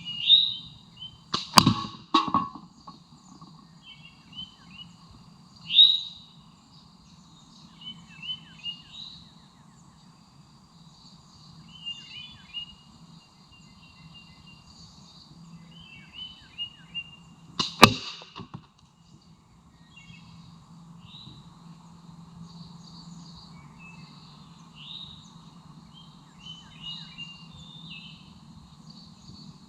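Two sharp shots about sixteen seconds apart, the first followed by a quick second crack, while songbirds chirp throughout.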